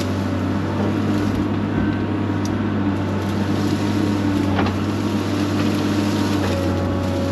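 Excavator engine running steadily under load, with a sharp clank about four and a half seconds in.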